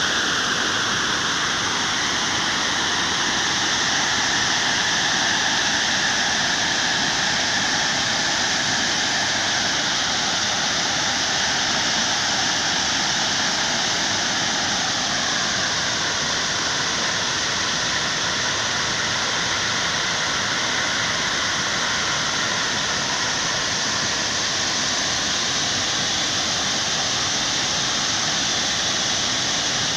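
Waterfall pouring: a steady, dense rush of falling water, its tone shifting slightly about halfway through.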